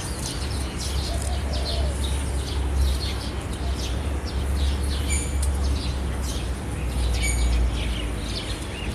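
Small birds chirping in many short, high calls, with two sharper calls about five and seven seconds in. Under them runs a steady low rumble.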